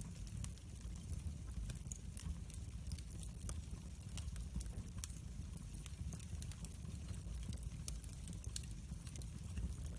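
Wood fire crackling: irregular sharp pops and snaps scattered over a low, steady rumble of burning.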